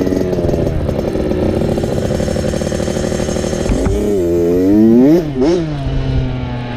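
Dirt bike engine running under way, holding a steady note, then dropping and rising in engine speed twice in quick succession a little past halfway, the loudest moment, before settling to a steady lower note near the end.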